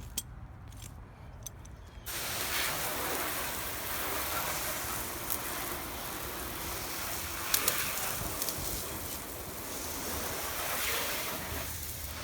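Garden hose spraying water onto a car: a steady hiss that starts suddenly about two seconds in. The flow is not that strong, because the old hose is kinked.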